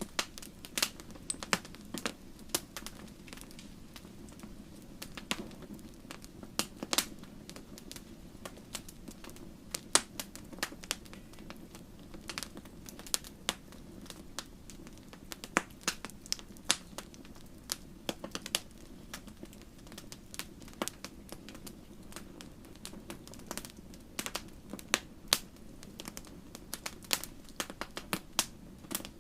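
Wood fire crackling in a fireplace: irregular sharp pops and snaps at uneven intervals over a low steady rumble.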